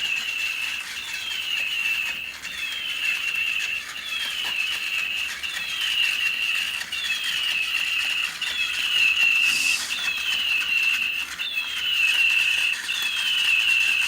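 Battery-powered toy bird chirping and flapping its wings: an electronic tone that slides down and then holds, repeating about every one and a half seconds, over a fast mechanical clicking from the wing mechanism.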